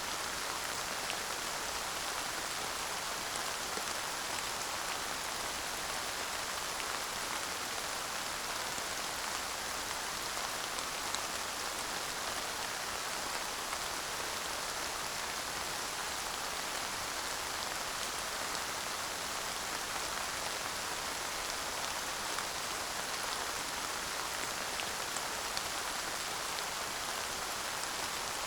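Steady light rain falling, a constant hiss with scattered small drop ticks and no thunder.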